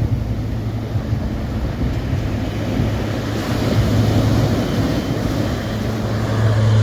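Surf breaking on the beach with wind buffeting the microphone, under a low rumble that grows steadily louder.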